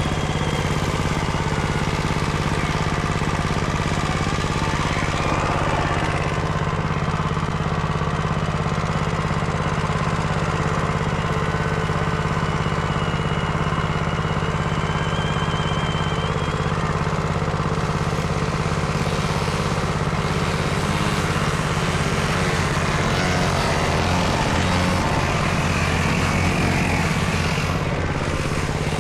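Small dirt-bike engine running steadily at a fairly even speed, with a constant low drone.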